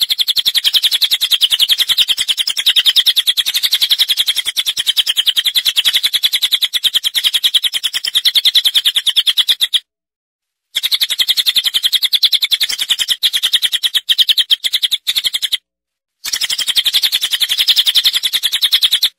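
Recorded bird calls played for song training: a loud, high, rapid chattering trill of fast repeated notes in three long runs, about ten, five and three seconds long, each cutting off abruptly.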